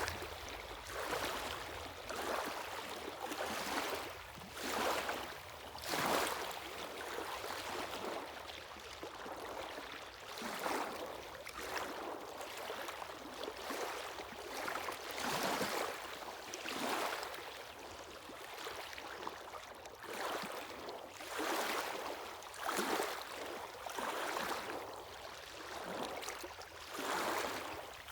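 Sea waves washing on the shore, the hiss of water surging and falling back every second or two.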